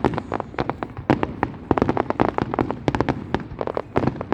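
Fireworks going off: a rapid, irregular string of sharp bangs and pops, several a second.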